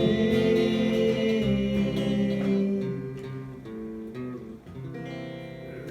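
Guitar playing the closing chords of a slow country song. The chords ring and fade, and a few quieter chords follow in the second half.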